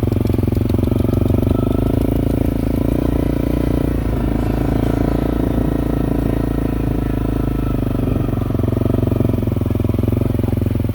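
Harley-Davidson V-twin motorcycle engine running steadily, just kick-started.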